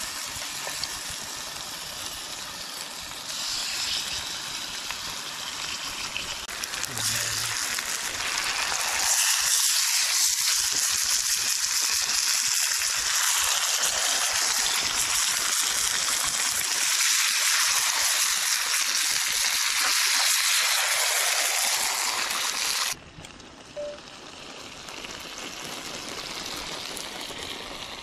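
Marinated chicken sizzling in hot oil with browned onions in an iron kadhai over a wood fire. The sizzle grows louder about nine seconds in, then drops abruptly to a softer sizzle some five seconds before the end.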